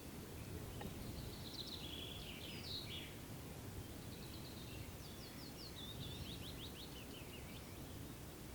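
A small songbird singing two high, fast phrases, the second a run of quick falling notes, over a steady low rumble of wind and ambient noise in a forest clearing.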